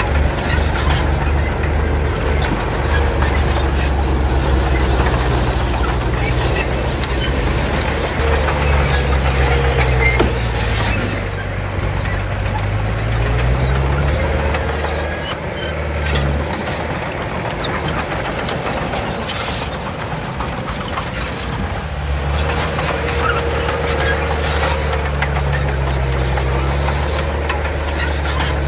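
Komatsu D31 crawler bulldozer working: its diesel engine runs under load, the pitch climbing for a couple of seconds just before the middle and dropping back, with high-pitched metallic noise from the tracks over it.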